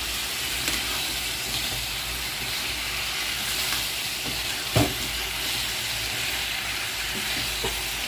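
Chicken curry gravy sizzling in a pan as it is stirred, a steady hiss with a few light scrapes and one sharp knock just under five seconds in.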